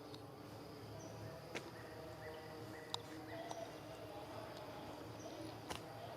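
Faint outdoor ambience with short, repeated high chirps from small animals. A few sharp clicks come through in the middle and near the end.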